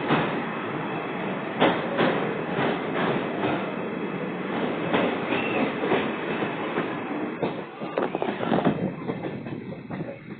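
Train running along the track, its wheels clattering over the rails with frequent irregular knocks over a steady rumble, getting quieter near the end.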